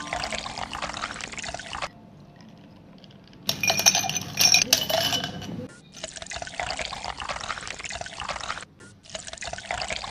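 Liquid being poured into a glass in several stretches, with glass clinking sharply for a couple of seconds in the middle.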